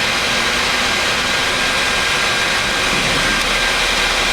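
Steady flight-deck noise of a Boeing 737 MAX on approach with flaps 5 set: a constant rush of airflow with engine and air-conditioning noise, and a faint steady high whine.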